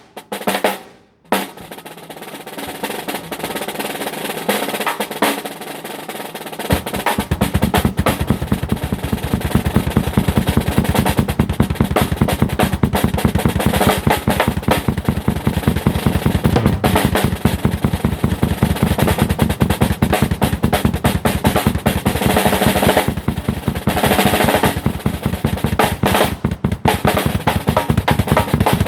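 Drum kit played fast with rapid snare rolls. About seven seconds in, a dense, very rapid pattern with a deep bass drum underneath takes over and carries on.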